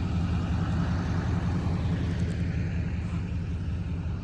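Pickup truck engine running steadily at an even speed, a low, constant drone with no change in pitch.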